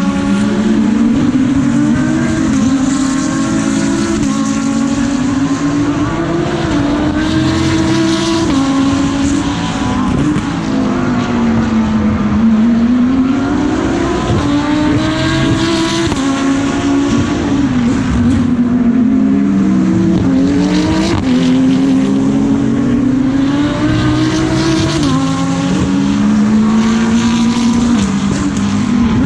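GT race car engine under hard acceleration and braking, heard onboard through a lap. The pitch repeatedly climbs with each gear and then drops sharply at the change, with stretches where it falls in steps as the driver downshifts for corners.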